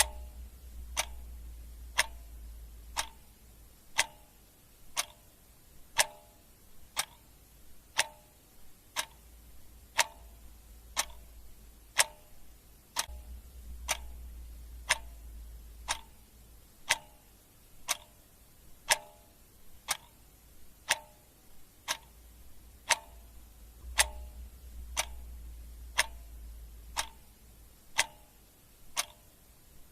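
Clock ticking steadily at one tick per second, the ticks alternating slightly in tone like a tick-tock, over a faint low hum.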